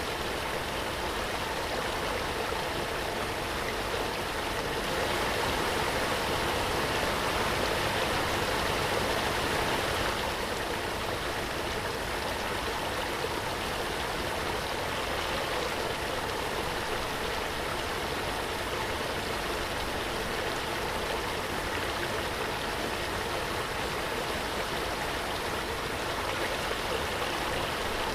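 Waterfall: a steady rush of falling water, swelling slightly for a few seconds and settling back.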